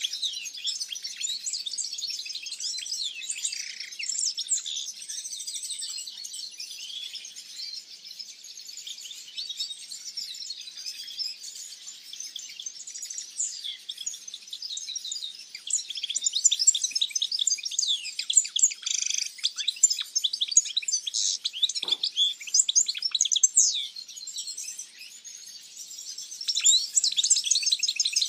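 Many small aviary birds chirping and twittering together: a dense, unbroken chorus of short, high chirps and trills, growing busier and louder a little past halfway and again near the end.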